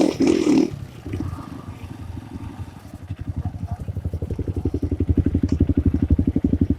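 Honda CRF150's single-cylinder four-stroke engine running at low revs, a steady, even chugging that grows louder from about three seconds in. A brief loud burst opens the first second.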